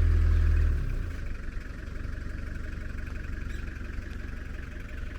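Vehicle engine running with a steady low rumble, heavier for about the first second, then settling at a lower level.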